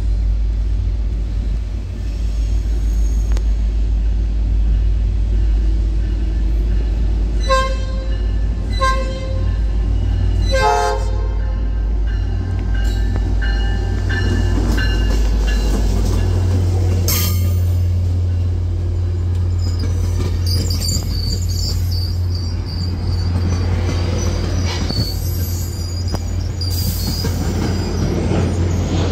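Tri-Rail diesel locomotive approaching and passing with a steady low rumble, sounding its horn in three short blasts about eight to eleven seconds in. As the train rolls by, its wheels squeal with high thin tones in the second half, and there is one sharp clank about seventeen seconds in.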